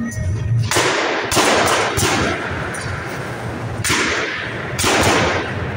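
A tuned show car revved hard on the spot, its exhaust letting out about five loud bangs over a low engine rumble.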